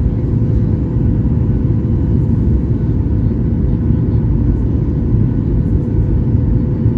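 Cabin noise of a Boeing 737 MAX 8 airliner with its CFM LEAP-1B engines under power: a loud, steady rumble with a faint steady hum over it.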